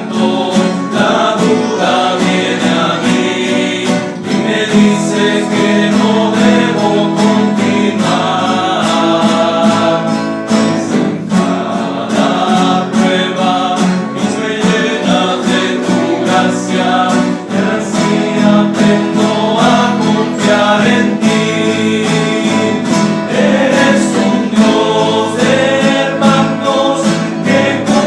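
Men's rondalla, a guitar ensemble, singing a gospel song in harmony over strummed guitars.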